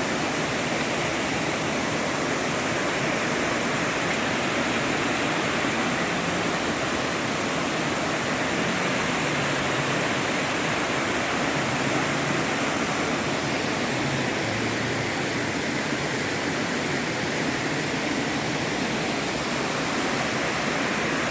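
Rushing water making a loud, steady, unbroken roar.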